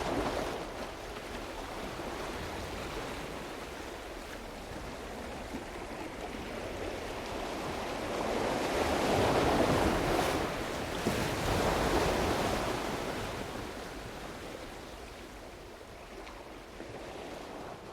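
Ocean surf: a wave rushes in, swelling to its loudest about halfway through, then washes back and fades.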